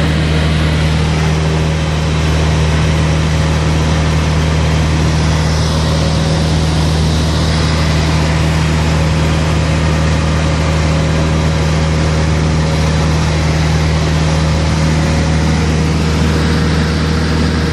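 Cessna 152's four-cylinder Lycoming O-235 engine and propeller droning steadily in flight, with an even hiss of airflow and rain over it.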